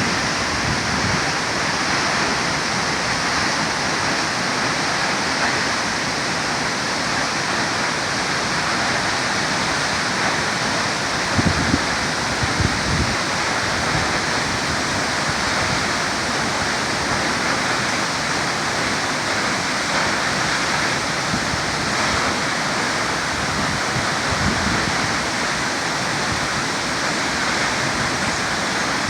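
Upper Multnomah Falls pouring: a steady rush of falling water, with a few low thumps about twelve seconds in.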